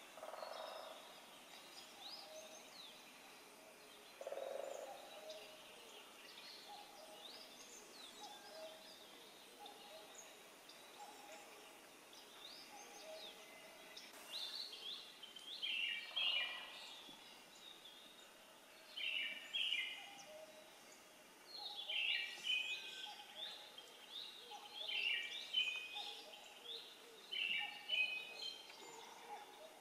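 Wild birds singing in the early-summer highland woods: short songbird phrases of quick falling notes repeat every few seconds and grow louder toward the end, over a faint low call repeated about once a second.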